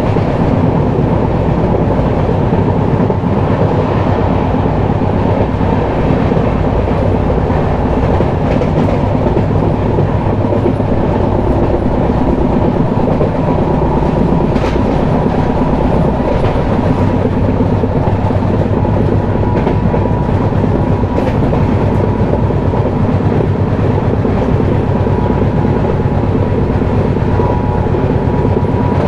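Passenger express train running along the track: a steady rumble of wheels on rails with occasional faint clicks from rail joints.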